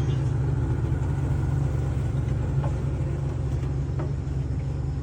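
Motorboat engine running steadily with a constant low drone.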